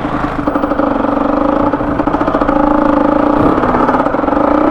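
Motorcycle engine running steadily while riding, its pitch holding even and its level slowly growing.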